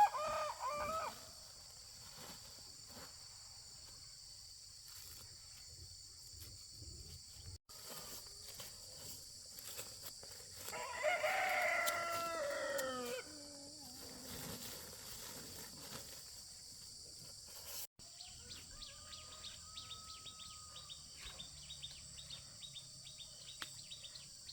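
A rooster crowing once, a strong call of about two seconds that drops in pitch at its end, midway through; the tail of another crow is heard at the very start. A steady high hiss runs underneath.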